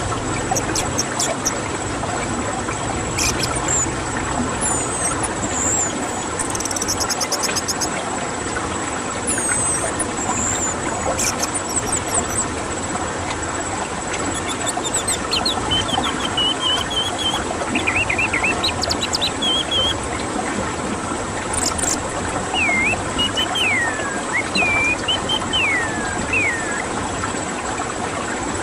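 Orange-headed thrush song: scattered short whistles, chirps and falling slurred notes, over a steady background hiss with a faint high whine.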